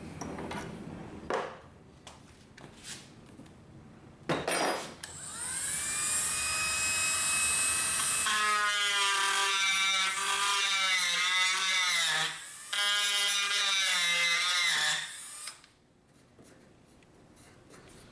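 Dremel rotary tool spinning up about five seconds in, then grinding into the wooden rifle stock, its pitch wavering and dipping under load, with a short break in the middle. It switches off and winds down near the end, after a couple of handling knocks before it starts.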